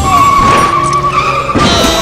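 Background music with a car sound effect laid over it: one long, high, slightly wavering squeal like tyres skidding.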